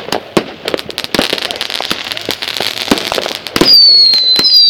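Fireworks going off: rapid, irregular sharp cracks and crackling. About three-quarters in, a loud, high, steady whistle starts, joined by a second one, and it becomes the loudest sound.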